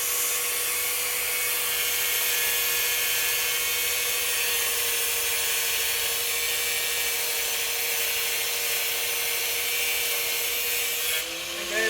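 Power tool running steadily: an even, loud hiss with a steady whine under it that shifts near the end before it cuts off.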